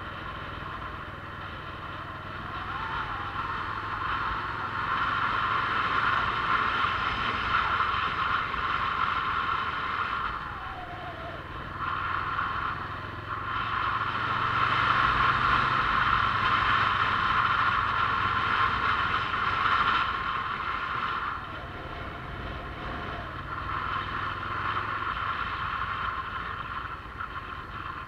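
Motorcycle running on the road, its engine mixed with wind noise. It gets louder and eases off several times as the bike speeds up and slows down.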